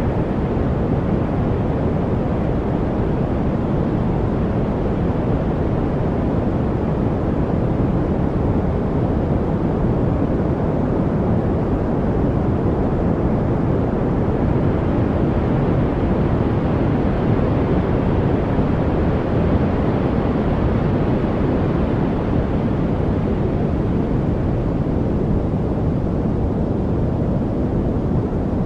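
Steady, unbroken rushing noise from a white-noise track for focus, deep and low with little treble. A little more hiss swells in around the middle, then fades back.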